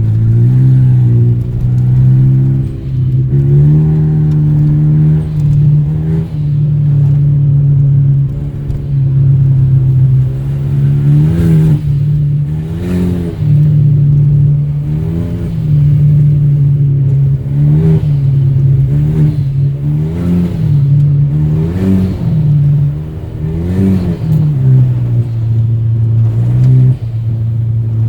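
Straight-piped, hybrid-turbo 2.0-litre four-cylinder of a tuned Renault Mégane RS 225 running under way. It holds a mostly steady note, then rises and falls briefly in revs again and again through the second half.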